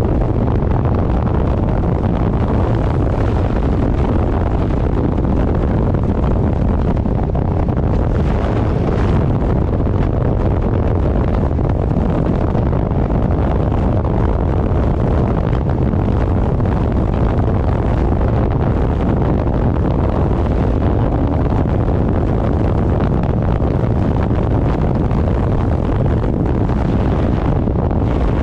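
Loud, steady wind rush buffeting the microphone of a moving motorcycle, a low rumble without a break.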